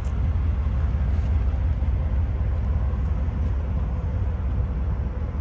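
1990 Cadillac Brougham's 5.7-litre V8 idling steadily, heard at the rear of the car as an even low hum.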